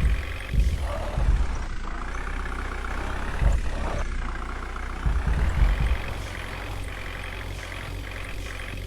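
Truck engine running steadily, with irregular heavy low rumbles.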